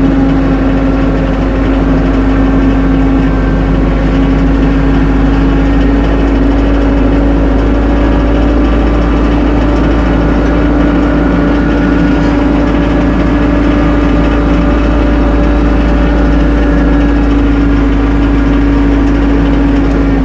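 Tractor engine running at a steady speed, loud and unchanging.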